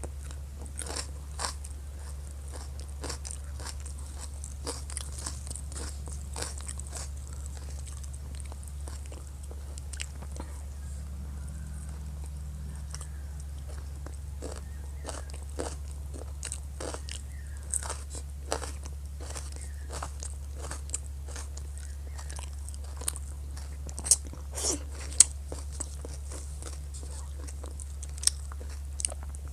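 Close-miked eating of a rice meal: irregular clicks and smacks of chewing and mouth sounds, with a few sharper, louder ones about three-quarters of the way through, over a steady low hum.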